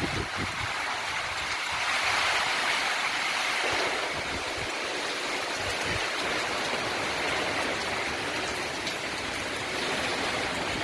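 Cyclone gale blowing: a steady rushing noise of strong wind that swells about two seconds in and eases a little after four, with a few low buffets on the microphone near the start.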